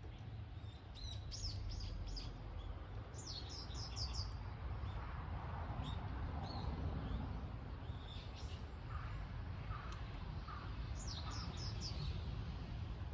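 Three quick series of high, falling chirps, with a few lower chirps between them, over a steady low rumble.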